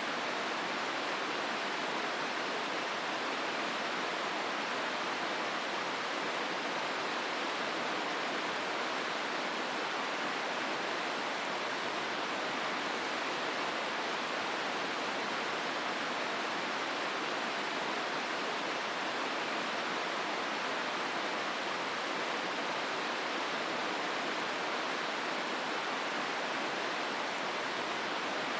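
Steady rushing of the Hozu River flowing through its rocky gorge, an even wash of water noise that does not change.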